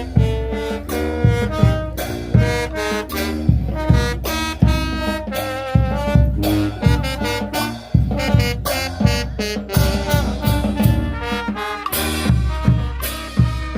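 Brass band music: saxophone and trumpets playing a melody over a steady drum beat.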